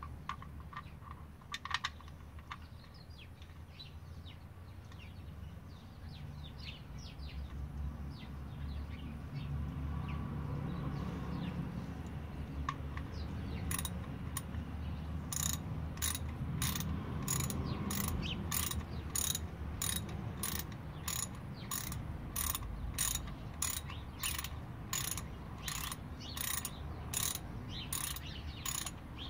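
Socket ratchet clicking in a steady run of about two clicks a second, starting about halfway in, as the oil drain plug is threaded back into the oil pan.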